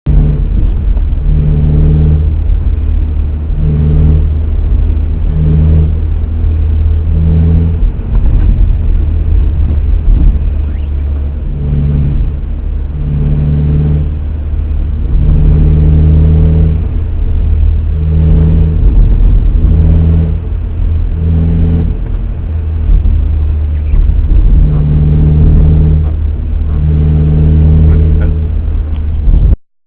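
Car engine running with a steady low drone, while a higher humming tone repeatedly comes in and drops out, each time lasting about a second.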